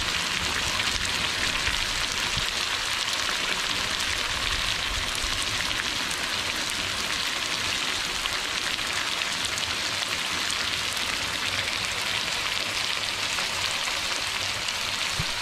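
Mala-spiced meat frying in oil in a wok over a gas burner: a steady sizzle with many small crackles.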